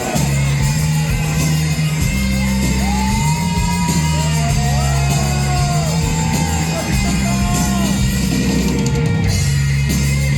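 Live rock band playing, with a steady bass line under long sung or bent guitar notes that rise and fall, and some yelling over the music.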